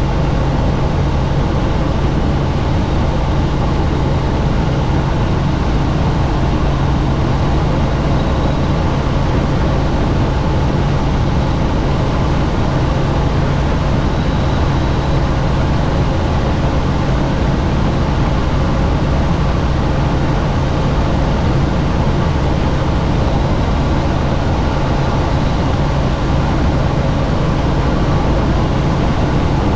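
Helicopter in flight, heard from on board: steady rotor and engine noise with a strong low hum that stays even throughout.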